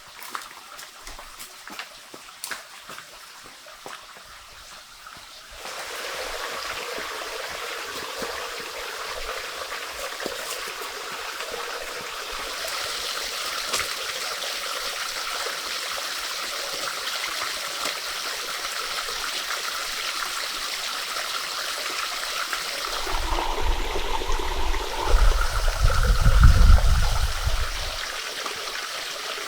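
Water running and trickling, like a small stream. A few sharp clicks in the first seconds; the water sound gets louder about six seconds in; a low rumble swells and fades near the end.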